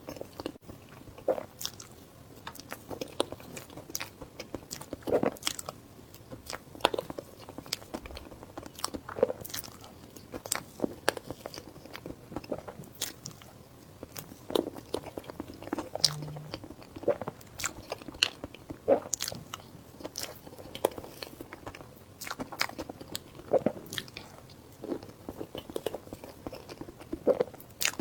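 Close-miked eating: a person biting and chewing food with sharp, irregular crunches, about one or two a second.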